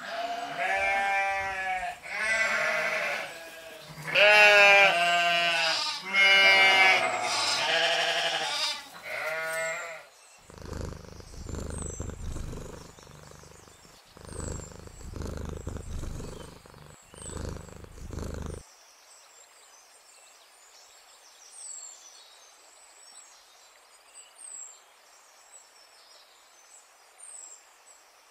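About five long, wavering bleats from farm livestock over the first ten seconds. Then lower, noisier rustling sounds until just past halfway, followed by a faint outdoor background with thin high chirps.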